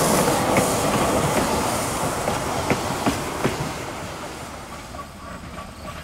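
Train cars rolling past on the rails, the wheels giving irregular clicks over the rail joints, the sound fading as the train moves away.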